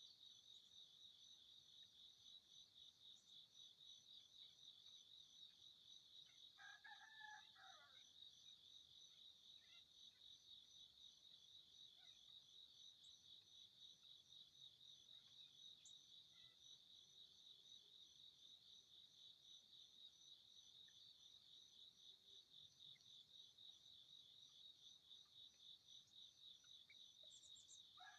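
Faint, steady, high, fast-pulsing insect trill, like crickets. A short bird call of about a second and a half comes about seven seconds in, and another right at the end.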